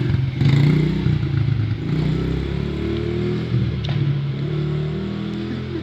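Motorbike engine revving as it is ridden, its pitch rising and falling several times.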